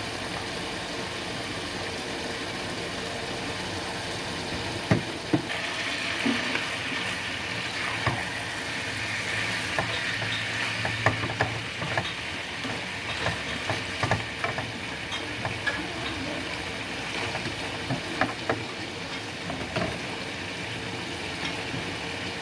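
Chicken pieces in a soy and sesame-oil sauce sizzling in a nonstick frying pan as the sauce cooks down until dry. From about five seconds in, the sizzle grows louder and a slotted spatula stirs the pieces with repeated short knocks and scrapes against the pan.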